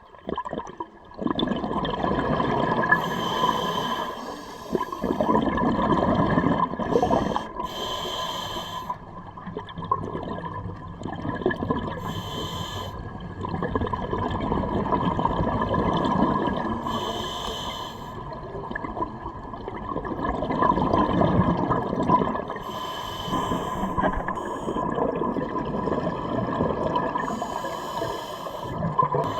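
Scuba diver breathing through a regulator underwater: each slow breath draws in with a hiss, then gurgling bubbles rise on the exhale, in cycles about every four to five seconds. A faint steady hum runs underneath.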